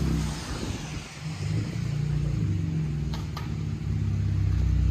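2013 Chevy Camaro's 3.6-litre V6 running through a true dual exhaust with Vibrant bottle resonators and the rear mufflers deleted. It is a steady low exhaust note that dips about a second in and builds toward the end.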